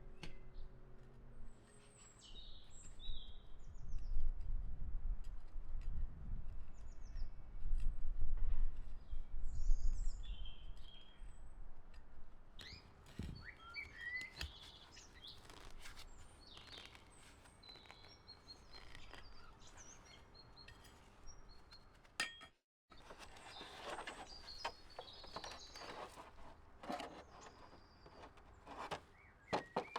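Small songbirds chirping and calling with many short, high calls, and a low rumble underneath for several seconds in the first third.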